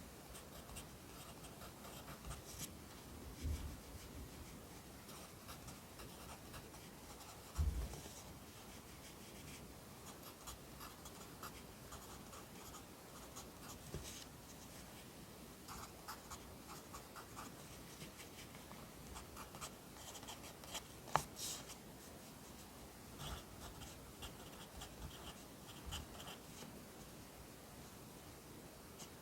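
Close-up handwriting on paper: faint, soft scratching strokes as Korean characters are written, with a few soft low thumps, the loudest a little under a third of the way in, and one sharp click about two thirds of the way through.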